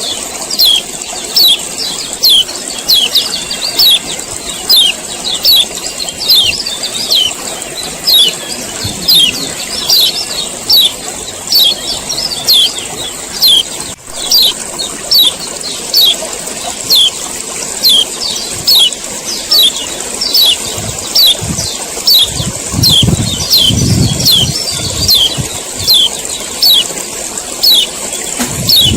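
A male kecial kuning white-eye giving a steady, repetitive run of sharp 'ciak ciak' alarm-type calls, each a short high falling note, more than one a second, over a steady high hiss.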